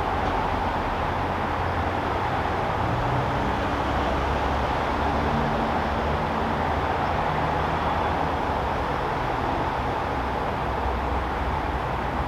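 Steady backyard ambient noise: an even, unbroken rumble and hiss with no distinct events.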